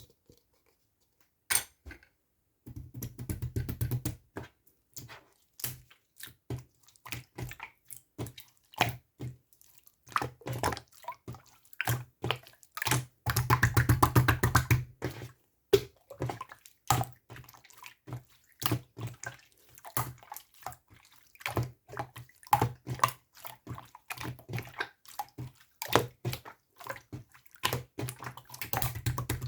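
Close handling sounds of small objects: many quick irregular clicks and taps mixed with short rustles, with a longer stretch of continuous rustling about halfway through.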